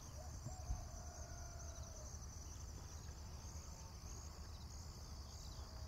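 Crickets chirping steadily in the background, a high, fast pulsing trill, over a low hum.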